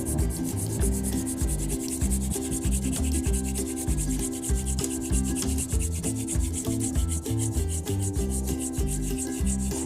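Hand-drill friction fire-starting: a wooden spindle spun back and forth between the palms, its tip grinding into a wooden hearth board in quick, even rubbing strokes, the drilling that builds up an ember.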